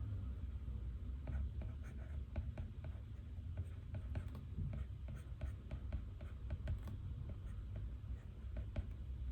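Writing by hand on paper: a run of quick, irregular scratches and taps starting about a second in, over a steady low room rumble.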